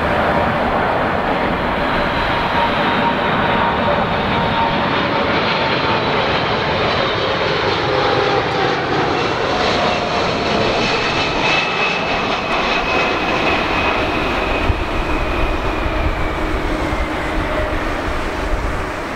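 Jet airliner coming in to land, its engines making a loud steady rush with whining tones that slowly fall in pitch as it passes.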